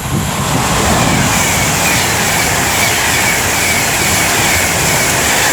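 Class 390 Pendolino electric train passing through the station at speed: a loud, steady rush of wheels on rail and air, with a faint whine slowly falling in pitch.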